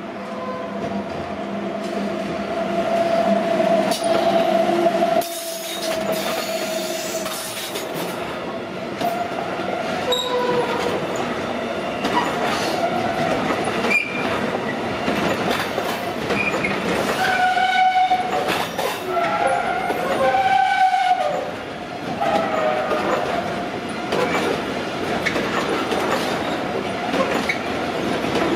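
Intermodal container train hauled by two BLS Re 465 electric locomotives passing through the station. The locomotives go by first, loudest a few seconds in, then the container wagons follow with steady rail rumble and wheel clatter. Wavering high squeals come from the wheels, strongest past the middle.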